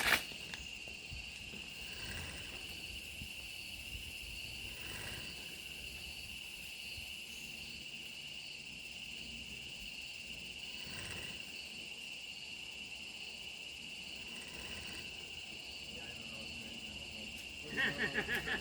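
Insects calling steadily: one continuous high-pitched drone with a faint, regular pulsing above it. A few soft rustles come and go.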